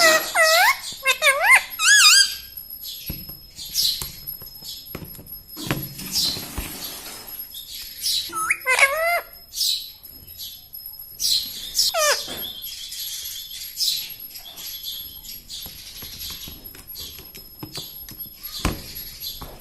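Pet ring-necked parakeet calling in bouts of rapid, wavering up-and-down chirps: one at the start, one around nine seconds in and one around twelve seconds in, with short high chirps and clicks in between.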